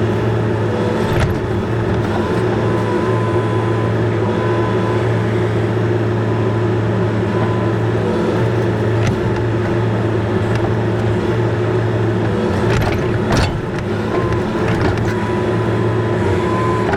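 Bobcat E42 compact excavator's diesel engine running steadily, its pitch wavering slightly under load, with a few sharp knocks about nine and thirteen seconds in.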